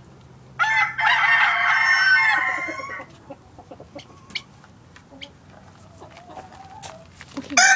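Rooster crowing: one long, loud crow about a second in, lasting about two seconds, then quieter clucking and a faint distant crow, with another loud crow starting near the end.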